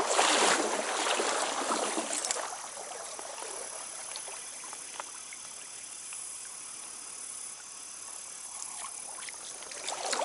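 Water of a small trout stream running over riffles, with louder splashing and sloshing for about the first two seconds, then a steady rush.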